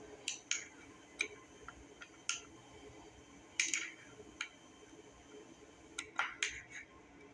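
Scattered light clicks and taps of small metal carburetor parts and hand tools being handled during reassembly. There are about a dozen of them, irregular, with a quick cluster near the end.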